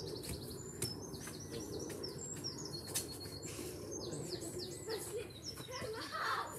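A garden songbird singing runs of quick, repeated chirping notes. Two sharp knocks from a football being kicked come through, about a second in and about three seconds in.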